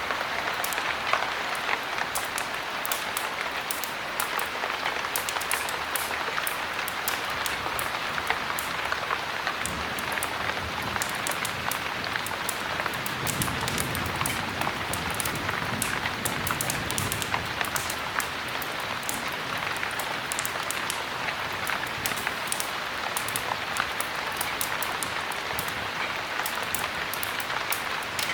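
Steady heavy rain, dense and even, with many sharp little ticks of drops over it. A low rumble swells up for a few seconds in the middle and fades again.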